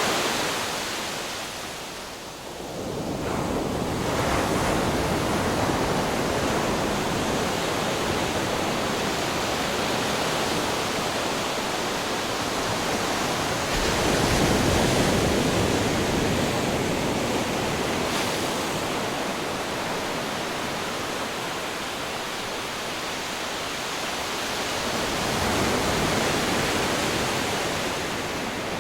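Ocean waves crashing against rocks, a constant rushing wash of surf with swells building at about four seconds, in the middle and again near the end.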